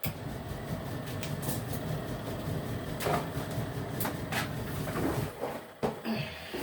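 Portable washing machine's wash motor running, churning water and clothes with a steady low hum, with a few sharp knocks and clicks.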